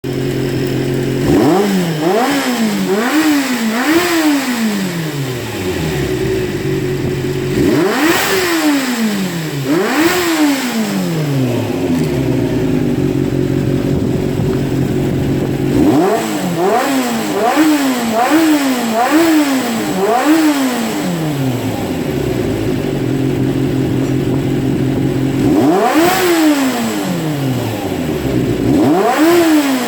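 Honda CBX400F air-cooled inline-four idling and being blipped in short runs of throttle, each rev rising quickly and falling back to a steady idle. It is a test run of freshly rebuilt carburettors with new throttle butterflies.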